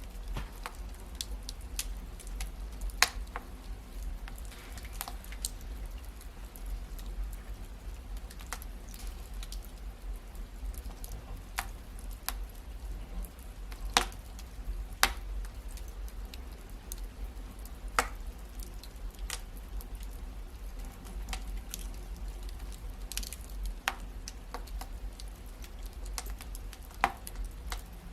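Wood fire crackling in a fireplace: irregular sharp pops and snaps over a low steady rumble, with a handful of louder pops scattered through.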